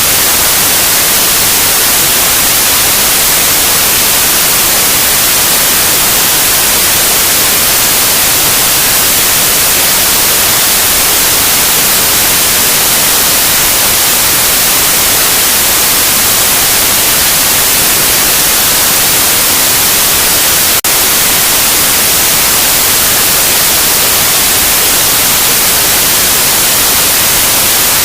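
Loud, steady white noise: an even, hiss-like static, bright in the highs, with one faint click about two-thirds of the way through.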